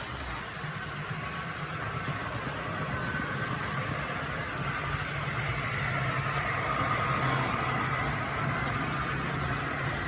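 HO-scale model train running along the track: a steady low motor hum with rolling wheel noise, growing louder over the first seven seconds or so as it passes close by.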